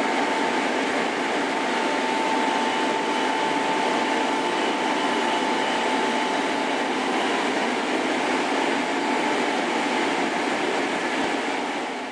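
Hankyu Kyo-train car (a converted 6300 series) running, heard from inside the passenger cabin: steady rolling noise with a faint steady whine that fades out a little past halfway.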